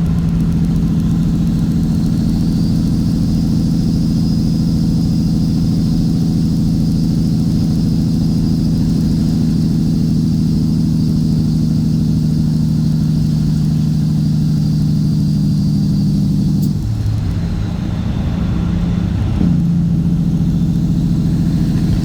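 Straight-piped Cat C15 ACERT inline-six diesel running at a steady pitch. The note drops and thins for about two seconds a few seconds before the end, then comes back at its earlier pitch.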